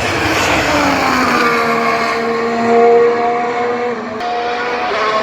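Formula 1 car's turbocharged V6 engine running at high revs. Its pitch falls over the first second and a half as it passes, then holds steady; it is loudest about three seconds in.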